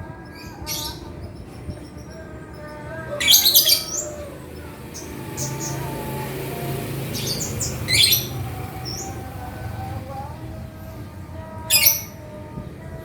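Male lovebird singing in shrill, rapid chattering bursts, the loudest about three, eight and twelve seconds in, with shorter chirps between.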